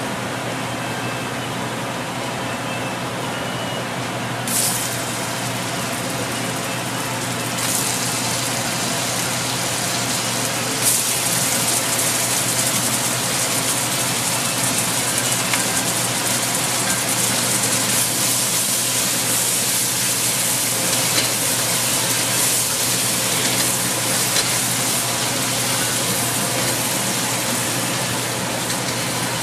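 Butter and garlic sauce sizzling in a wok. About eleven seconds in, raw scallops go into the hot pan and the sizzling becomes louder and brighter, with a spatula stirring them near the end.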